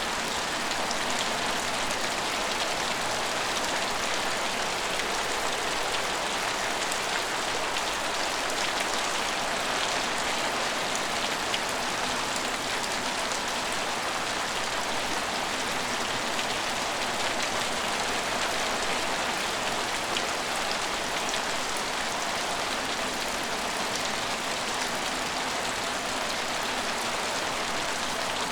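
Steady rain falling on hard surfaces, an even hiss with scattered fine drop ticks.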